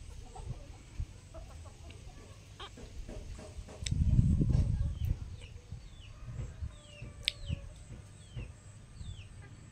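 Chickens clucking, with short high falling chirps repeating through the second half. A loud low rumble comes about four seconds in and lasts about a second.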